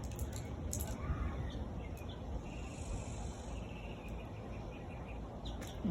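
Steady outdoor background noise with a faint, high chirping call around the middle, and a few light clicks near the start and again near the end.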